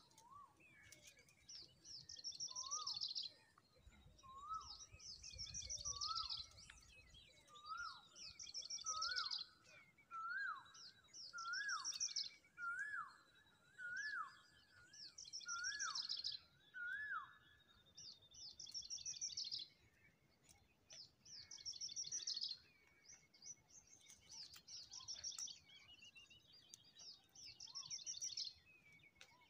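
Birds calling: a high, fast trilled phrase repeated every second or two, with a lower whistled note that rises then falls, repeating about once a second until a little past halfway.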